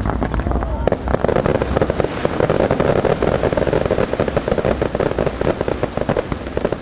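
Underwater fireworks going off in a row on a pond. A sudden loud burst comes first, then from about a second in there is dense, rapid crackling and popping of many small star bursts that keeps going steadily.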